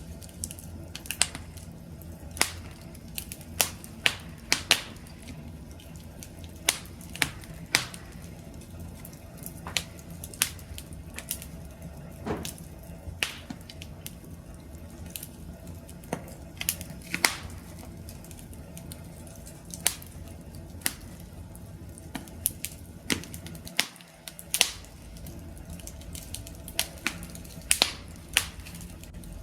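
Wood campfire crackling: irregular sharp pops and snaps, several a second at times, over a steady low rumble of burning.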